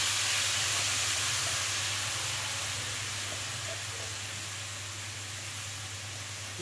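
Rice sizzling in hot oil in a steel kadhai over a gas flame, just after it was poured in, the hiss slowly dying down.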